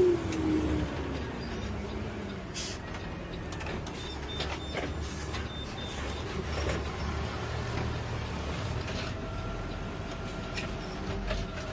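Garbage truck running with a steady low engine rumble, a whine that falls in pitch over the first couple of seconds, and scattered clicks and knocks.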